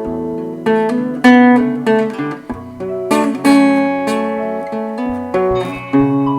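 Acoustic guitar strumming chords in an instrumental passage of a song, without singing.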